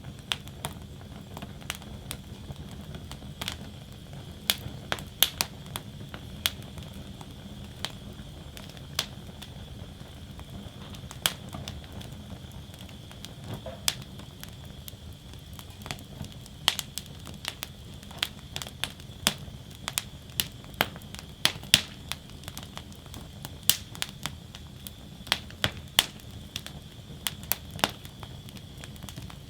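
Wood fire burning in a fire basket, crackling steadily with irregular sharp pops and snaps, a few each second and some much louder than the rest, over a low steady rumble of the flames.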